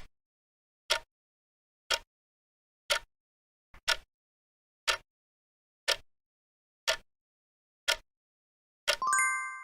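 Quiz countdown timer sound effect: a sharp tick about once a second while the 10 seconds to answer run out, ending near the end in a bright chime that rings on and fades.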